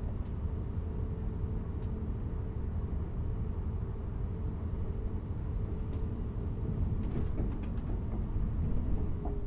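Class 175 diesel multiple unit running, a steady low rumble with an even hum, with a few light clicks and rattles in the last few seconds.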